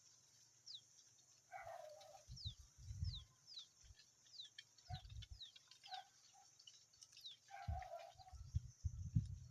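Small birds chirping faintly: many short, thin, high notes that slide downward, a few each second, with a couple of lower calls. Low thumps come in bouts twice, the loudest near the end.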